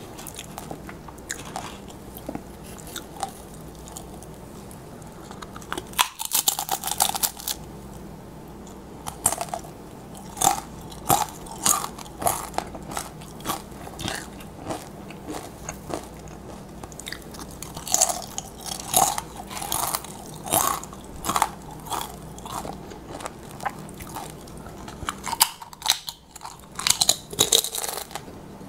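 Crisp tortilla chips being bitten and chewed close to the microphone. A loud crunching bite comes about six seconds in, followed by steady crunching chews roughly every half second, and another bite near the end.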